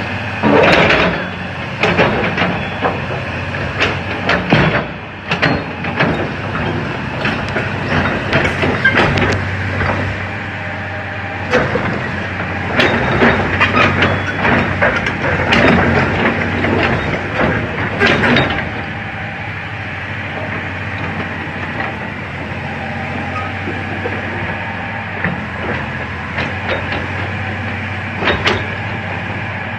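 Komatsu PC400-8 hydraulic excavator's diesel engine running steadily, with repeated metallic clanks and knocks for the first eighteen seconds or so, then mostly the steady engine with only a few knocks.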